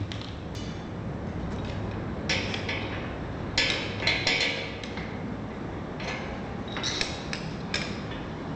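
Hand tools and metal parts clinking and clattering in a few short bursts over a steady low hum, as work on a truck's helper-spring installation wraps up.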